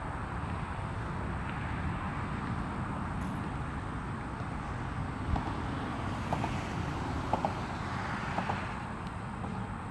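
Distant jet aircraft engines making a steady outdoor rumble that swells a little and fades again about seven to nine seconds in, with a few short ticks in the middle.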